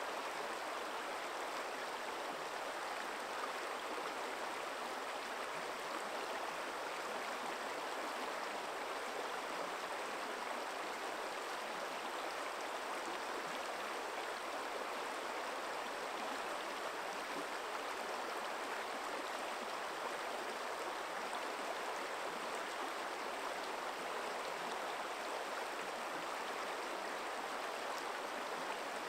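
Forest stream running steadily over stones, an even rushing and babbling of water with no pauses or changes.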